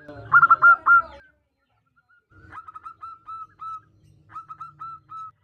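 Zebra dove (perkutut) cooing in runs of short, quick notes: a loud run of about four notes near the start, then two quieter runs. The birds are presented as a female calling to a male.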